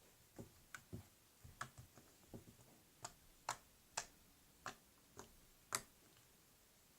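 Faint, irregular sticky clicks and pops of jiggly slime being squished and pulled apart by hand, about a dozen over six seconds.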